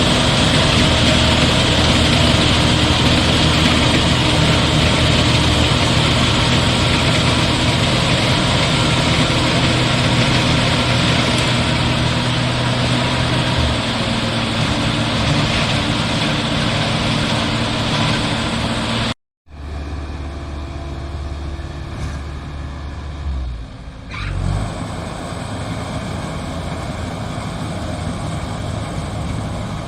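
Rice combine harvester running steadily, a loud engine and machinery hum. About two-thirds of the way through, the sound breaks off for a moment and comes back quieter and duller.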